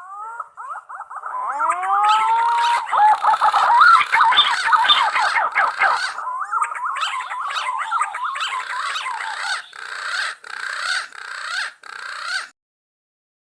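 Green pigeons (punai) calling: whistled notes that curve upward, then a dense, warbling run of gliding notes with scratchy pulses repeating about twice a second. The calling cuts off suddenly near the end.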